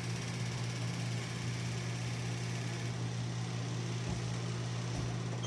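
Steady low machine hum from equipment in the ultrasound room, holding an even pitch throughout.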